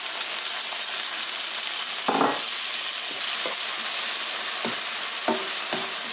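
Chopped tomatoes and onions sizzling in hot oil in a frying pan on high heat, stirred with a wooden spatula that knocks against the pan several times, most loudly about two seconds in.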